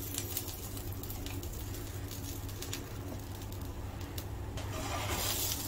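Egg-and-cheese toast sandwich sizzling faintly in a nonstick frying pan, with a few light crackles over a steady low hum.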